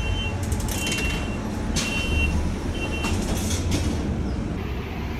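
Steady low rumble of a large vehicle's engine, with a short high beep repeating about once a second for the first few seconds.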